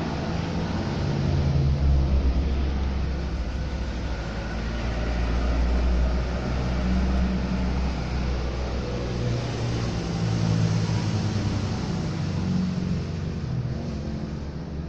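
A motor vehicle engine running, its pitch and loudness rising and falling every few seconds, over a steady hiss.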